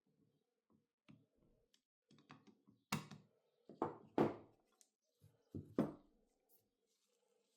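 A handful of irregular sharp knocks and clicks of hard objects being handled and set down, the loudest three coming between about three and six seconds in.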